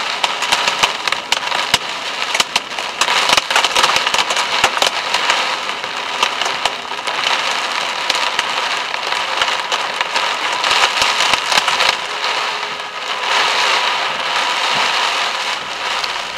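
Heavy rain pelting the car's roof and windscreen, heard from inside the cabin as a dense crackle of individual hits over a steady hiss.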